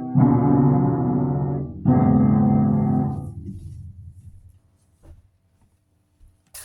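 Two sustained keyboard chords, about two seconds apart, each ringing on and then fading out over the next few seconds. A short sharp noise comes at the very end.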